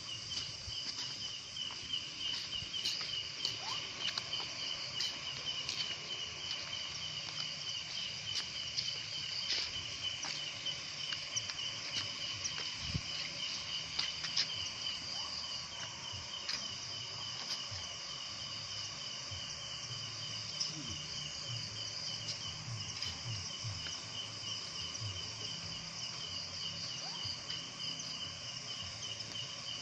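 Insects chirring in a steady chorus: a continuous, rapidly pulsing high trill with a second, higher buzz over it.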